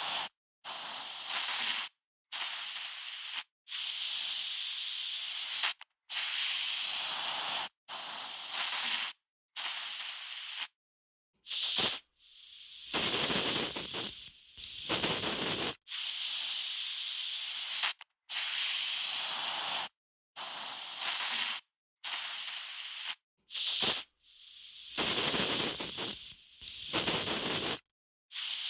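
Aerosol spray can being sprayed in a string of short hissing bursts, mostly one to two seconds each, with brief silent gaps between them; a few longer bursts have a fuller, lower rush.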